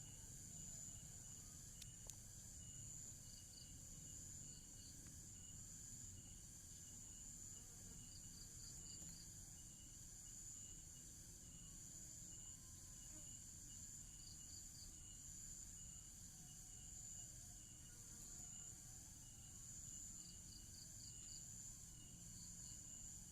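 Near silence with faint insects chirping in the background: a steady high-pitched drone plus short chirps in groups of three or four every few seconds.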